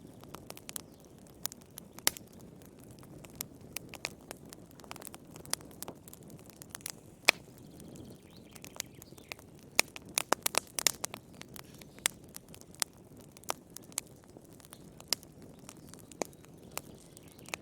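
Wood fire crackling in a fireplace: irregular sharp pops and snaps over a low, steady rush of flame. The pops come thickest about ten seconds in, and the loudest single snap falls a little past seven seconds.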